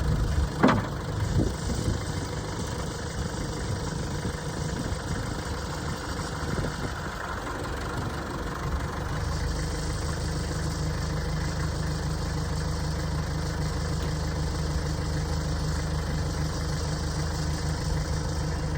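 Tractor engine running steadily, with a couple of sharp clunks near the start.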